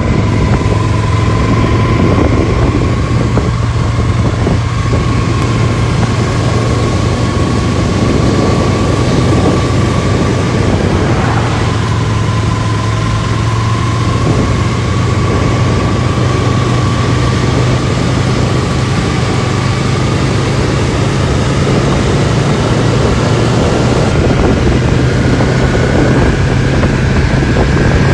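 A vehicle running steadily, with a constant low engine hum under loud rushing noise and a thin whine that slowly climbs in pitch, briefly breaking about eleven seconds in.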